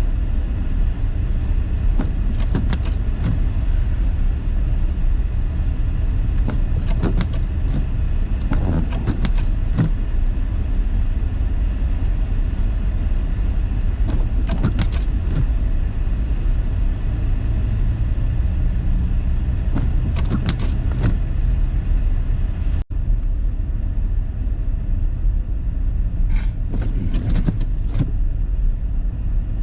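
Steady low rumble of a car's engine and tyres, heard inside the cabin while driving on snow-covered roads, with clusters of short knocks or scrapes every few seconds.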